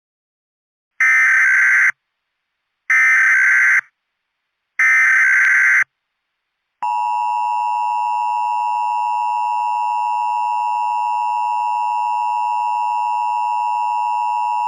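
Emergency Alert System SAME header: three one-second bursts of harsh, buzzy digital data tones about two seconds apart. These are followed by the steady two-tone EAS attention signal, held for about eight seconds, which opens an alert broadcast.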